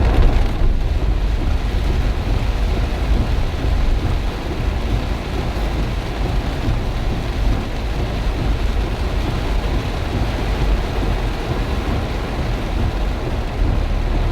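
Heavy rain pouring in strong wind: a steady, dense rush of rain with a continuous low rumble underneath.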